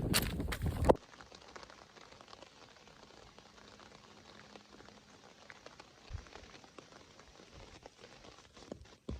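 Light rain pattering faintly, with scattered small drips and an occasional soft thump. It follows a loud, clattering second that cuts off suddenly.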